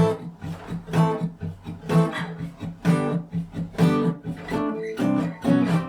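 Acoustic guitar strummed in a reggae rhythm, a strong chord stroke about once a second with lighter strokes between. The strings are old and sound dull, lacking sustain, to the player's ear.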